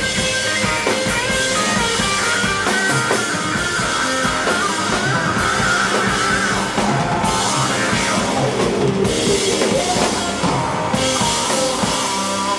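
Live rock band playing an instrumental passage on guitar and drum kit, with no vocals.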